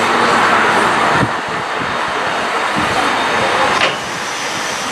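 Steam-hauled train running by: a steady, loud rush of noise that drops suddenly about a second in.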